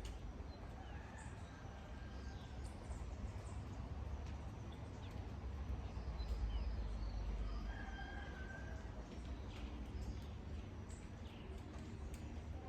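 Steady rain with scattered drip ticks, and brief animal calls, one about a second in and another about eight seconds in.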